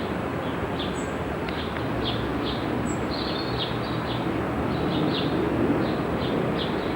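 Small birds chirping in quick short notes, two or three a second, over a steady rushing background noise, with two brief high peeps about one and three seconds in.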